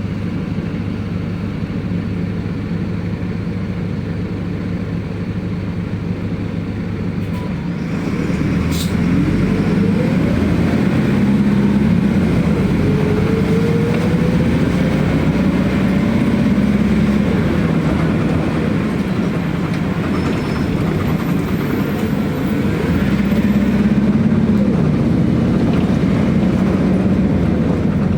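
City bus (colectivo) engine running steadily, then louder from about eight seconds in, its pitch rising several times as the bus pulls away and accelerates.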